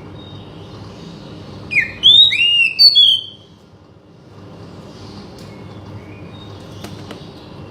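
Oriental magpie-robin (kacer) singing: a loud phrase of looping, rising and falling whistles about two seconds in, followed by a few faint chirps, over a steady low background hum.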